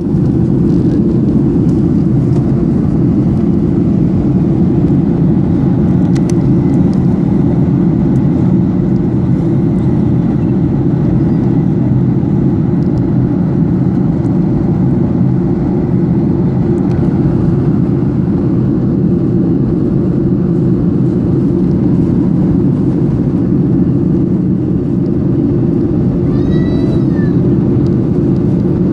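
Steady cabin noise inside a Boeing 737-800 airliner in flight: the low rumble of its CFM56 jet engines and the rushing air, holding at a constant level. Near the end a short, high sound with a bending pitch rises briefly above it.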